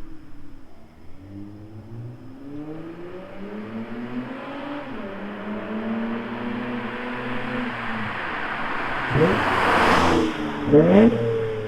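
Acura TL Type S 3.5-litre V6 with its mid and rear mufflers deleted, heard through the open exhaust as the engine is revved. The note climbs slowly, holds, then falls away, and two quick sharp revs come near the end with the loudest exhaust noise.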